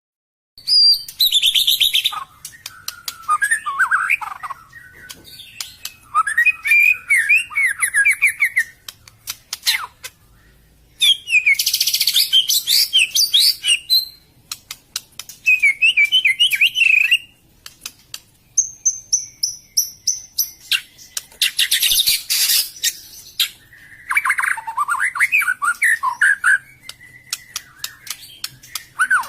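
White-rumped shama (murai batu) singing in short bursts of varied whistled and chattering phrases, each a second or a few seconds long, with brief pauses between them; some phrases carry harsh, rattling notes. It is a lure (pikat) song, used to draw wild shamas in.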